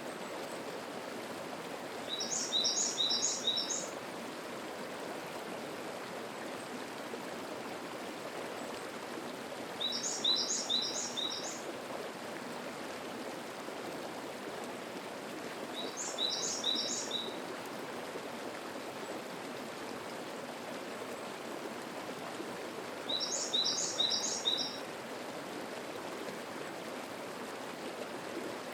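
Mountain stream babbling steadily. Over it a songbird repeats a short phrase of about four quick, high notes roughly every seven seconds, four times, with a fifth starting at the very end.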